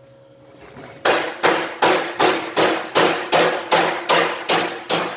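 Hammer blows on metal in a steady rhythm, about two and a half strikes a second, a dozen in all, starting about a second in.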